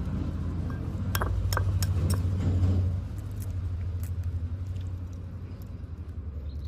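A steady low rumble like a running vehicle engine, loudest about two to three seconds in, with a few sharp clicks and clinks in the first couple of seconds.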